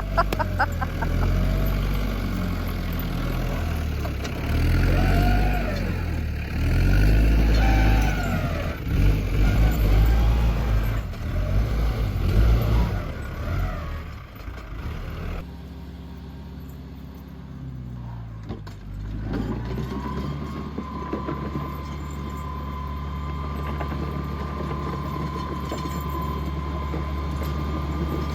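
Vehicle engine working under varying load, its pitch rising and falling repeatedly. Partway through it changes abruptly to a steadier run with a constant high whine.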